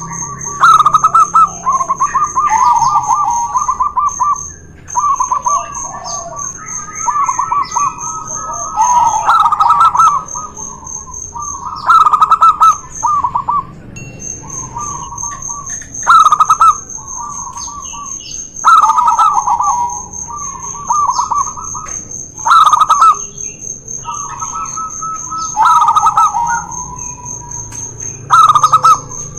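Zebra doves (perkutut) cooing in repeated staccato phrases, two birds calling against each other, with a loud coo every two to four seconds. A steady, high, pulsing trill runs behind the cooing.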